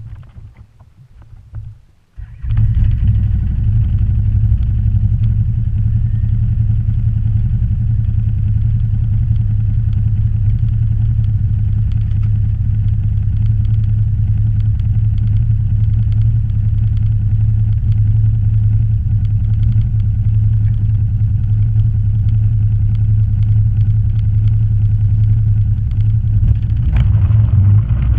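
Off-road vehicle engine running steadily under way, a loud, low drone that comes in suddenly about two and a half seconds in.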